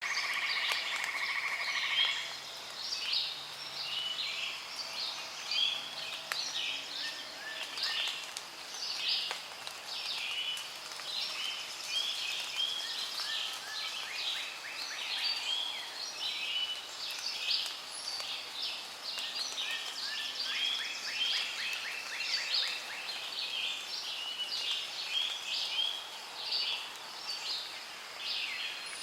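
Rainforest birds calling and chirping over one another without pause, many short high calls overlapping, with a rapid buzzing trill at the start.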